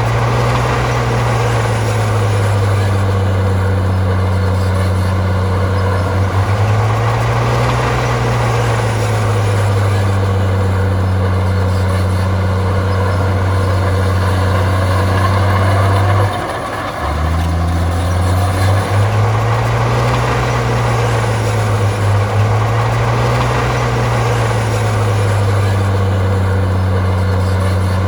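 Heavy diesel engine of earthmoving machinery working under load, its pitch rising and falling every few seconds, with a brief drop about sixteen seconds in before it picks up again.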